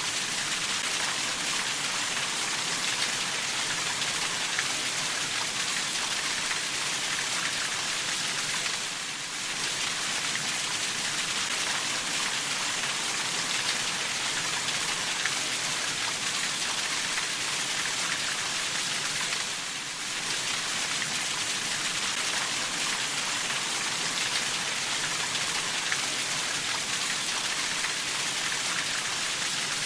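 Steady heavy rainfall, a dense even hiss of drops on surfaces, with brief dips in level about every ten seconds.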